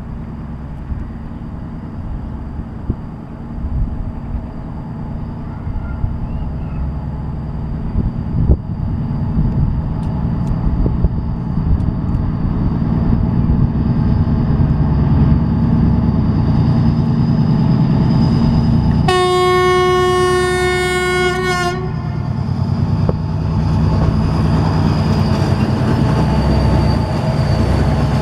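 2TE10M twin-section diesel locomotive approaching with a freight train: a low engine rumble that grows steadily louder, broken about two-thirds of the way in by one steady horn blast of about two and a half seconds, after which the rumble of the locomotive and train goes on.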